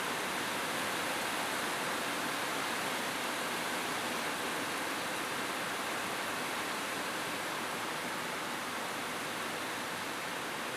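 Steady rain falling on a roof, a continuous even hiss of drops with no thunder.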